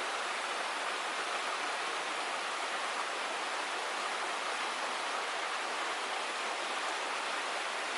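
Creek water flowing, a steady rushing hiss.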